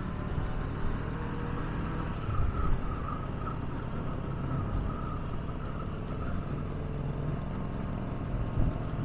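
Honda CB500X's parallel-twin engine running at a steady cruise, with wind noise over the microphone.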